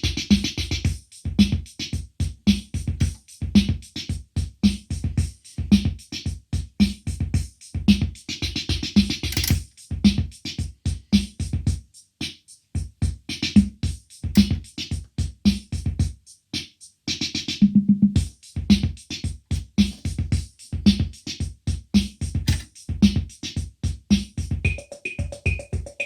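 Roland CR-68 CompuRhythm analogue drum machine playing rhythm patterns: steady kick-drum thumps and hi-hat ticks, a brief gap about halfway through, then a different pattern. Near the end a high repeating bleep joins the beat.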